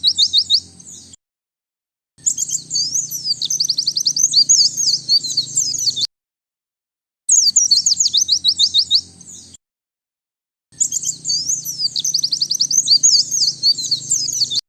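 White-eye (pleci) song: rapid high twittering phrases of quick down-slurred notes. They come in edited bursts of two to four seconds that start and stop abruptly, with dead silence between them.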